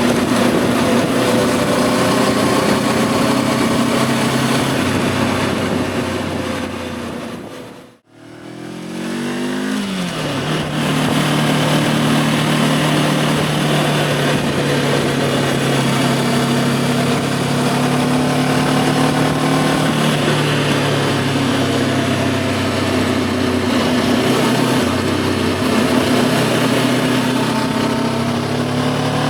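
Voge 525 DSX motorcycle's parallel-twin engine running at a steady cruise, with wind rush over it. About eight seconds in the sound drops out briefly, then returns with the engine note falling before it settles back to a steady pitch.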